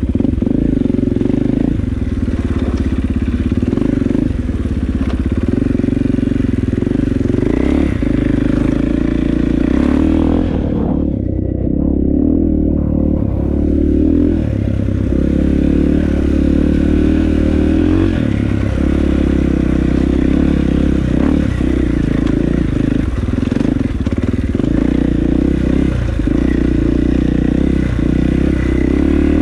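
KTM off-road motorcycle engine running steadily under load through the whole stretch, with frequent clatter and knocks from the bike over rough, muddy ground.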